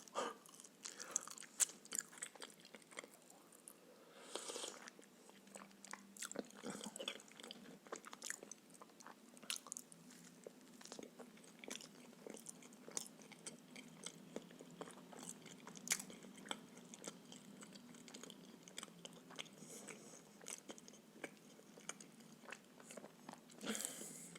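Close-miked chewing of pancakes stuffed with pea filling: a steady run of soft, irregular wet mouth clicks and bites.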